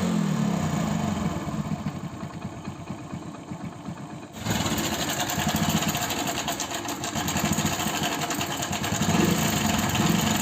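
Hero Passion Pro single-cylinder motorcycle engine idling, just after a new timing chain, tensioner pad and roller have been fitted. About four seconds in, the sound cuts suddenly to a louder, noisier run of the engine.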